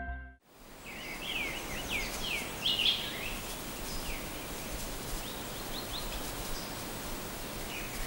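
Outdoor forest ambience: a steady background hiss with a bird calling, a quick run of short downward-sweeping chirps in the first few seconds and a few fainter ones later. Background music fades out just at the start.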